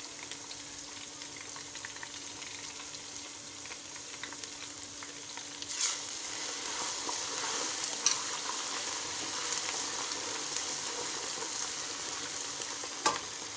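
Ginger-garlic paste and golden-brown sliced onions sizzling in hot ghee, stirred with a metal spoon that clinks against the pot a few times. The sizzle grows louder about six seconds in.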